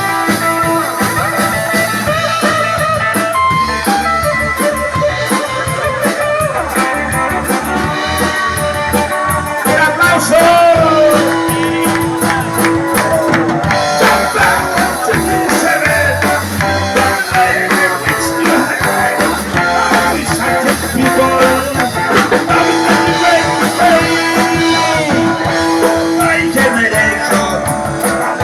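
Live rock and roll band playing: electric guitar, bass and drum kit, with singing.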